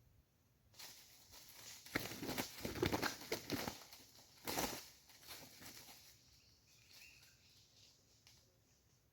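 Red junglefowl beating its wings hard in a flurry of flapping and rustling. It starts about a second in, is loudest between two and five seconds, then dies away.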